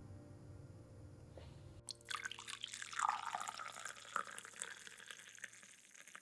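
Water running and splashing, with irregular drips and spatters, as from a kitchen tap into a sink. It starts about two seconds in, is loudest about a second later, and tapers off near the end.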